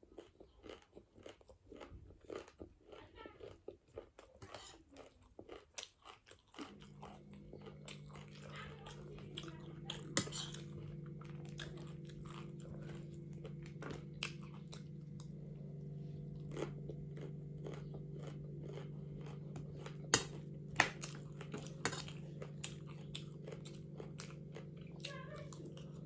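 A person eating close to the microphone: crunchy bites and chewing, with many short crisp crunches. About six and a half seconds in a steady low hum starts and continues underneath.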